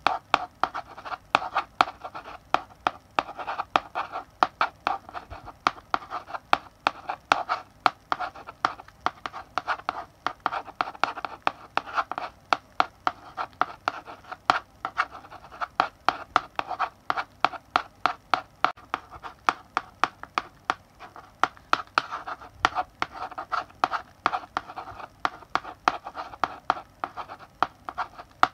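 Chalk writing on a blackboard: quick scratchy strokes and sharp taps of the chalk against the board, coming in an irregular stream as letters are written.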